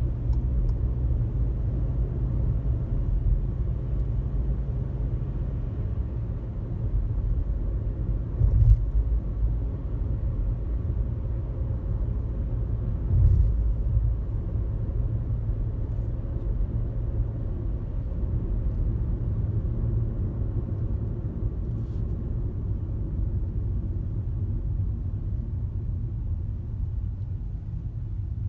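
A car cruising on a highway, with a steady low road and engine rumble. Two brief thumps come about 8 and 13 seconds in, as the tyres go over bumps in the road.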